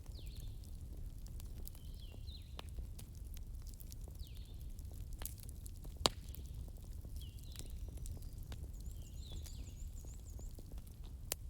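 Wood fire burning in a fireplace, with a steady low rumble and scattered sharp crackles and pops; the loudest pop comes about six seconds in. Faint high chirping sounds recur throughout.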